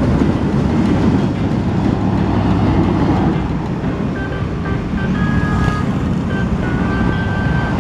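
Steady loud rumble of a train running past, with short thin high-pitched tones at a few fixed pitches joining about halfway through.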